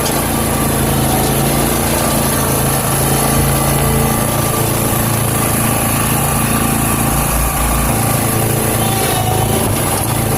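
Country Clipper zero-turn lawn mower's engine running steadily under load while towing a rotary hoe. Its note shifts slightly about four seconds in.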